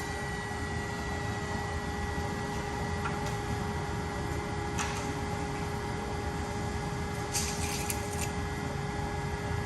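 Hendrick HM3 3200 machine running while it cuts plywood: a steady whine of several fixed tones over continuous machine noise, with brief rattles about five seconds in and again near the eight-second mark.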